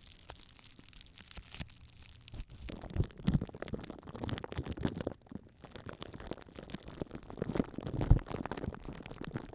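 Crackling and crunching: sparse clicks at first, turning to dense crackling from about three seconds in, with a low thud at about three seconds and the loudest one at about eight seconds.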